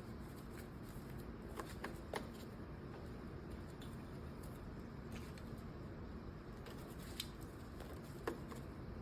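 Steady hiss of heavy rain, with a few brief rustles and ticks of paper bills and envelopes being handled.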